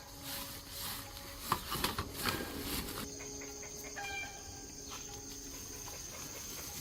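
A few knocks and clicks between about one and a half and three seconds in, and a short call at about four seconds, over a steady high whine and a low hum.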